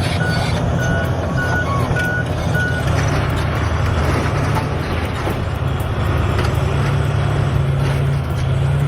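Heavy diesel vehicle engine running steadily, with a reversing alarm beeping about twice a second that stops about three seconds in.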